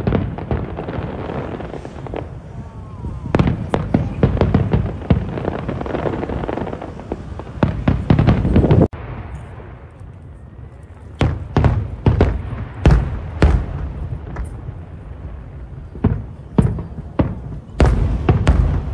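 Aerial fireworks bursting in quick succession: many sharp bangs over a dense crackling. The sound drops off abruptly about nine seconds in, and more spaced bangs follow.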